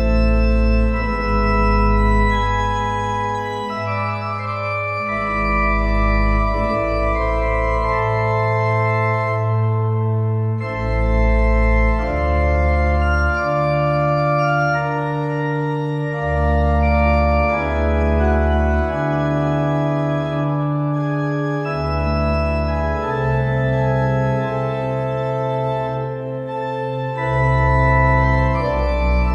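Organ music: slow, sustained chords over deep bass pedal notes that change every second or two.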